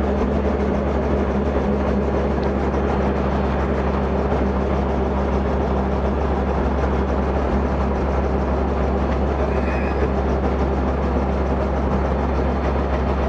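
Robinson R44 helicopter running steadily on the ground before takeoff: the drone of its piston engine and rotor, with a low hum of several steady tones under it.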